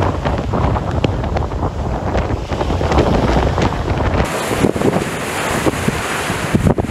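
Strong storm wind buffeting the microphone with a heavy rumble, over crashing surf. About four seconds in the low rumble drops away suddenly and a brighter hiss of wind and breaking waves takes over.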